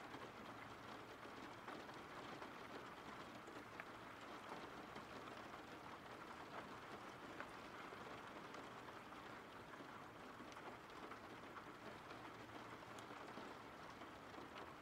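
Faint, steady rain: an even hiss with scattered light ticks of drops.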